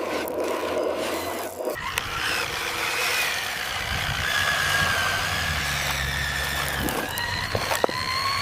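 A scraping, rubbing sound that cuts off about two seconds in, followed by a radio-controlled construction model's motor whining, its pitch rising slowly over a low hum.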